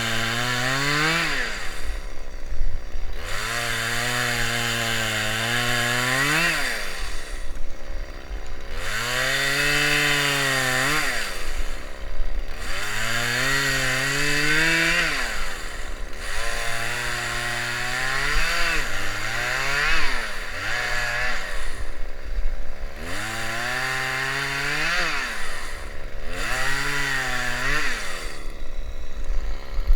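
A small engine revving up and down over and over: it holds a steady pitch, swells higher, then drops back to a low idle, about every three to four seconds.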